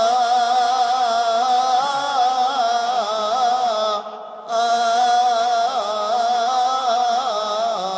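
Coptic liturgical chant by a solo male voice, one long melismatic line with wavering ornaments, broken once about four seconds in for a breath.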